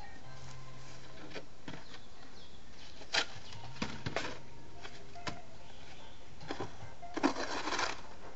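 Wild birds singing in the background, with a few sharp knocks about three to five seconds in and a short rustle near the end.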